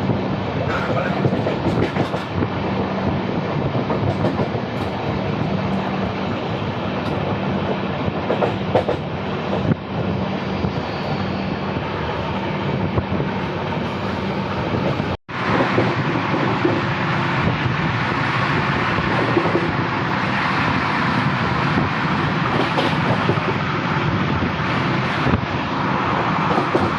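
Train running at speed, a steady rumble of wheels on the rails. The sound cuts out for an instant about halfway through.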